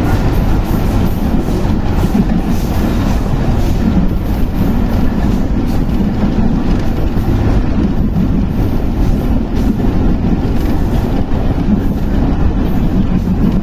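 Train running along the rails, a steady loud rumble.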